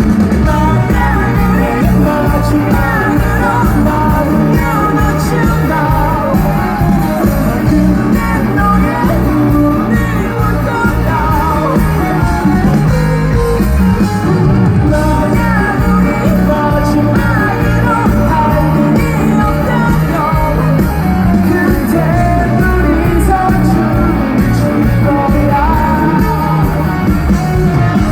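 Rock band playing live: a singer over electric guitars, bass and drums, loud and continuous.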